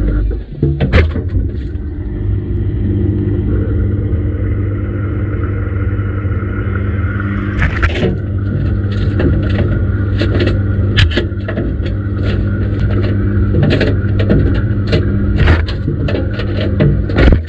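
Washing machine running its wash cycle: a steady motor hum and whine as the drum turns, joined from about halfway by a run of irregular knocks and clicks as the laundry tumbles in the drum.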